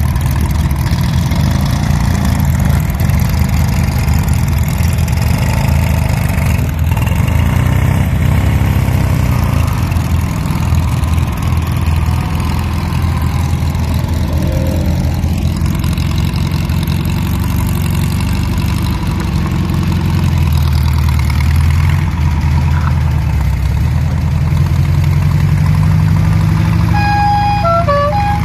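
Small car engines of a vintage Fiat 500 and a dune buggy running: a steady low engine note as the cars idle and pull away, rising a little about twenty seconds in and again near the end. Near the end a short run of high tones steps downward.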